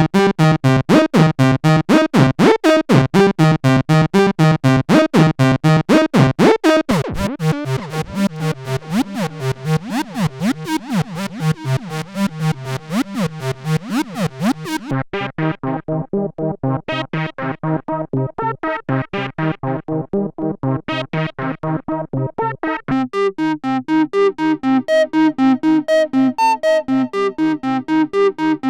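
Roland SE-02 analog monophonic synthesizer playing a fast sequenced line of about four notes a second, stepping through its factory preset patches. The tone changes sharply three times, going from bright and buzzy to a duller, filtered sound after the midpoint.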